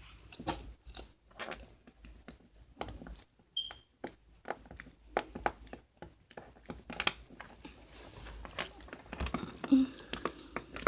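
Homemade fluffy slime, made from school glue and shaving cream, being squished and played with in the hands: quiet, irregular small pops and clicks.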